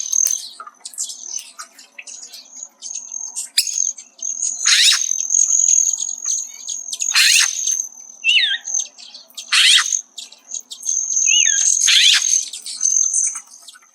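Male Hairy Woodpecker calling at close range: four loud, sharp "peek" calls a couple of seconds apart, with a few softer, shorter chirping notes between them. A thin, steady high tone runs underneath throughout.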